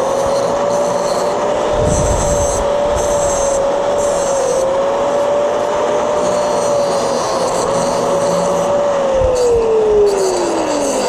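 Angle grinder spun up and trimming metal, the scraping grind coming and going in short passes while the motor holds a steady pitch, then the motor winding down about nine seconds in.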